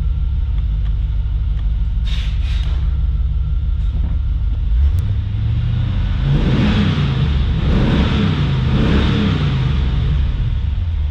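A 1996 Corvette's LT1 5.7-litre V8 idling steadily, then revved up a few times about halfway through and settling back to idle near the end, heard from inside the car.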